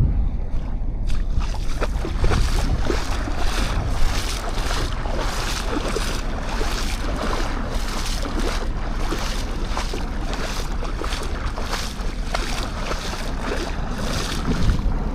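Surf washing on a sand beach with wind buffeting the microphone: a steady low wind rumble under a dense hiss of water that swells in about a second in and keeps surging.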